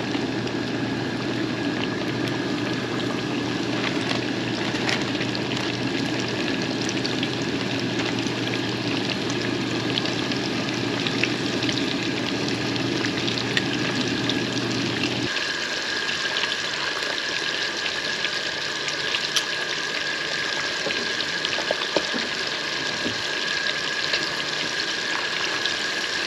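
Cornmeal-breaded fish frying in hot grease in a pan, sizzling and crackling steadily. A low hum underneath stops about halfway through.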